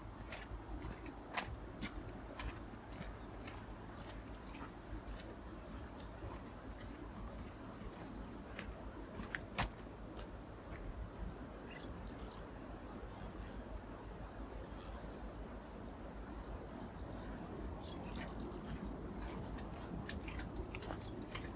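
A high, steady insect chorus that shifts pitch in steps every few seconds, with scattered light clicks throughout.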